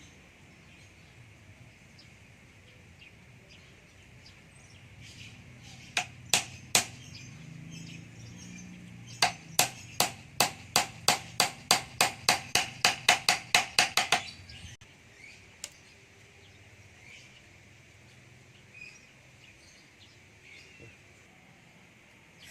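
A hand tool striking wood: three strikes, then a quick run of about fifteen sharp strikes that speeds up to about three a second.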